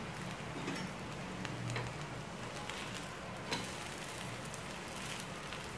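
Semolina-and-wheat-flour batter pancake frying in ghee in a non-stick pan on a high gas flame: a steady sizzling hiss with scattered small pops.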